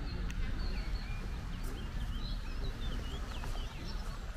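Small birds chirping, with many short quick notes bending up and down, over a low steady rumble.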